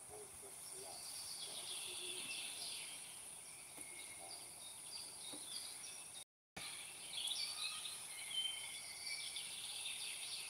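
Small birds chirping and twittering over a steady high hiss of outdoor ambience. The sound cuts out completely for a moment about six seconds in.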